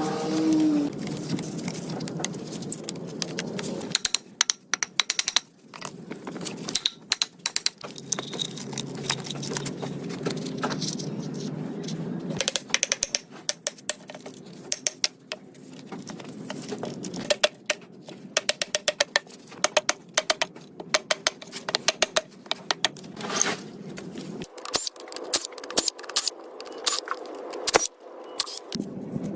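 Irregular run of small metallic clicks and clinks, like hand tools and small parts being handled on a workbench, over a steady low background hum that drops away near the end.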